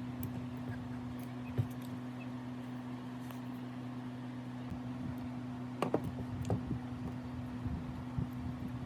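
A steady low hum, with a few scattered light knocks and clicks, the sharpest a cluster about six seconds in.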